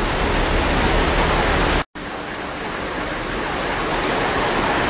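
Heavy rain falling on deep floodwater, a steady hiss. It cuts out for an instant just under two seconds in and comes back a little quieter.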